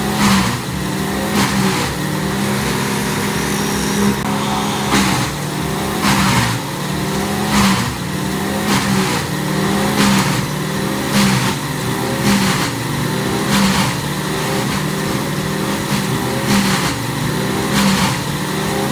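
A machine's engine running steadily, with a sharp strike repeating about every second and a quarter.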